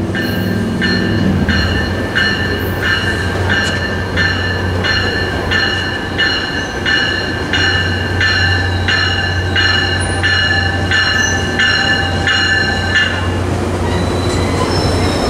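Tri-Rail commuter train pulling into the station: a bell rings about twice a second over the steady low drone of the train, and the ringing stops near the end. A thin, high wheel squeal starts as the train comes alongside the platform.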